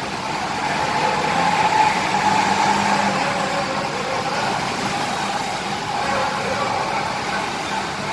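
Bus engine running as a bus pulls out of the terminal, a steady engine hum that swells slightly a couple of seconds in.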